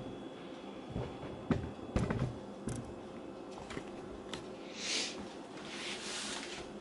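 A few light knocks and clicks of things being handled, then two short stretches of soft, scratchy rustling near the end.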